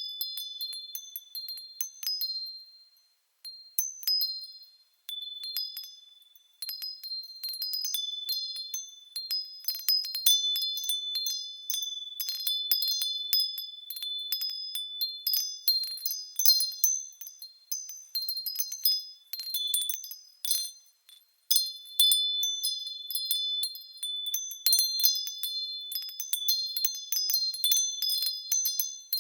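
Japanese fūrin wind chimes ringing in the breeze: irregular clear, high tinkling strikes that overlap and ring on, with a few brief lulls when the wind drops.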